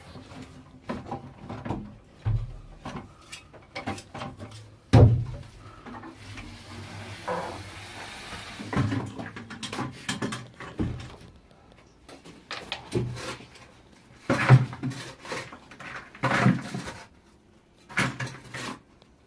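Irregular knocks, clunks and scrapes of hand digging work and a rubble bucket in a narrow tunnel shaft, with a soft hiss in the middle.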